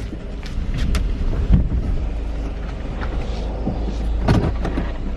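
Car interior noise while driving: a steady low road rumble, with a few short clicks and knocks, the strongest about four seconds in.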